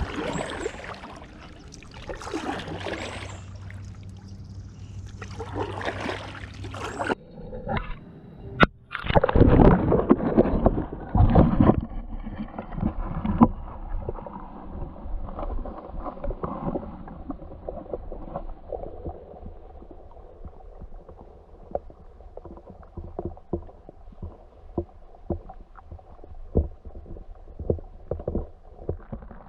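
Kayak being paddled: paddle blades dipping and splashing in the water, with drips and light knocks. The sound changes abruptly about seven seconds in, and a louder stretch of splashing follows a couple of seconds later.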